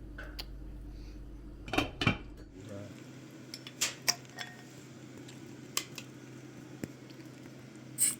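Scattered clinks and knocks of pots and utensils being handled, with a couple of sharp clatters about two seconds in and again around four seconds.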